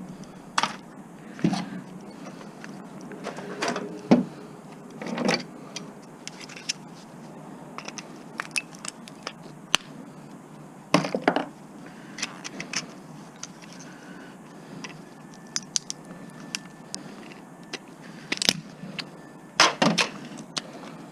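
Scattered clicks, clinks and scrapes of metal and plastic parts and hand tools being handled as a microwave oven is stripped for scrap, with several louder knocks spread through.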